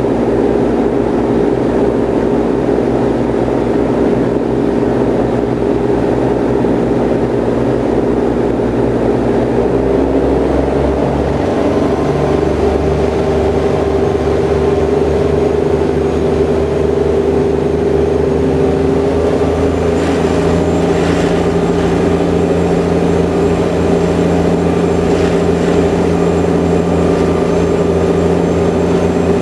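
Ferry engines running with a steady, loud drone of several held tones. The engine note shifts about a third of the way in, the deeper part growing stronger.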